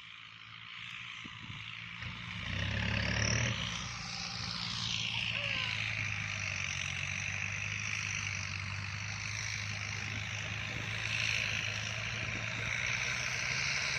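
Kubota tractor's diesel engine running, growing louder about two seconds in and then holding steady.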